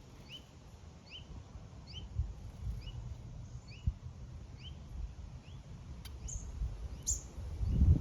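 A small bird chirping over and over, short rising notes about twice a second, with a few higher, louder chirps near the end. A low rumble grows under it near the end.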